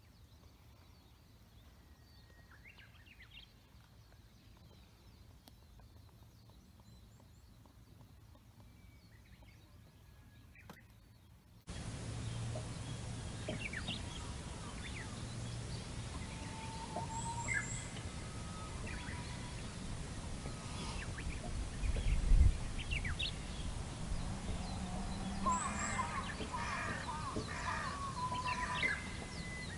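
Scattered wild bird calls over quiet outdoor ambience, which gets markedly louder about twelve seconds in. A single low thump near the middle is the loudest sound.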